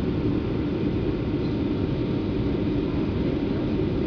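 Steady low cabin noise of a Boeing 737-700 descending on approach: engine and airflow noise heard from inside the passenger cabin.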